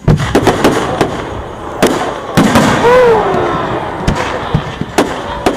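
Fireworks going off in a display: a sudden loud bang opens a rapid run of sharp reports and crackle that keeps on throughout.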